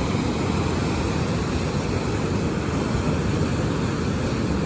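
Steady low rumble of ocean surf and wind, with wind buffeting the microphone.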